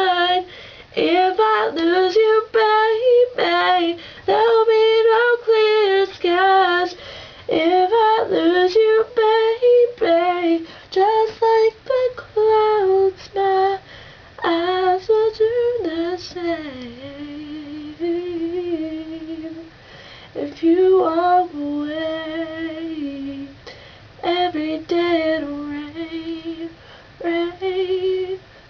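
A young woman singing a slow pop ballad unaccompanied, in sung phrases with short breaths between them.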